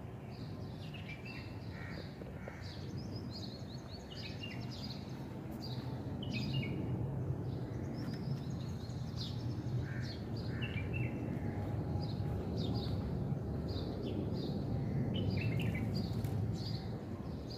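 Small birds chirping: many short, quick chirps and twitters repeated throughout, over a steady low background rumble that grows slightly louder about six seconds in.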